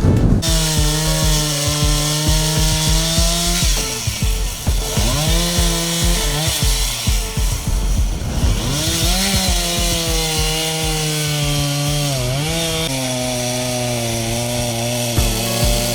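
Chainsaw running at high revs, its pitch dipping and recovering several times as it loads up in wood.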